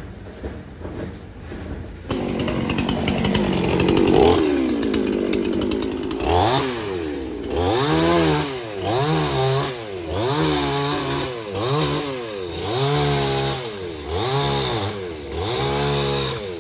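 Chainsaw engine comes in about two seconds in and revs high. It then revs up and down over and over, about once every second and a half.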